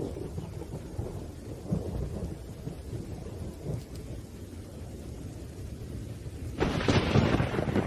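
Thunderstorm: low thunder rumbling with rain, then a sudden, louder crack of thunder near the end lasting about a second.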